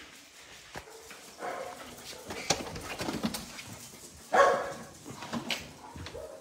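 Dogs barking in short calls, the loudest a little over four seconds in, with faint scattered taps between.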